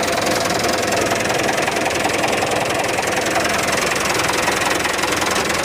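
Mitsubishi Canter truck's diesel engine idling steadily.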